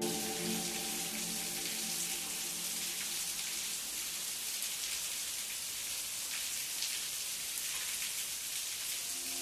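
Steady rain: an even hiss with faint scattered drop taps.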